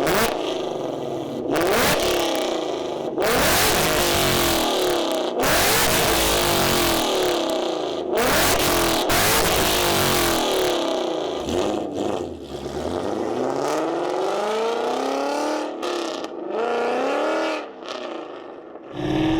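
2015 Mustang GT's 5.0 L V8 through long-tube headers and a Corsa Xtreme cat-back exhaust with no cats, revved and accelerated over and over, the pitch climbing and falling with each rev. Loud and raspy.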